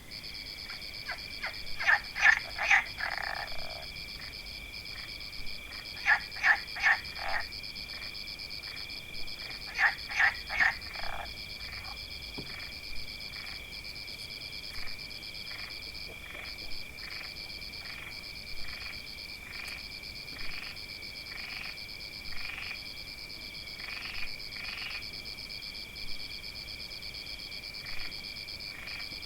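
Frogs croaking over a steady high-pitched trilling chorus. In the first eleven seconds the croaks come in quick groups of three to five; after that, single croaks repeat about once a second.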